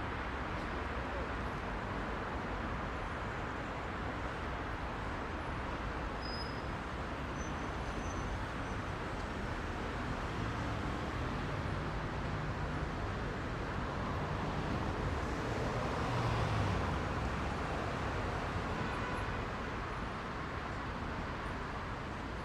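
Heavy rush-hour city traffic: a steady hum of engines and tyres, swelling as a louder vehicle passes about two-thirds of the way through.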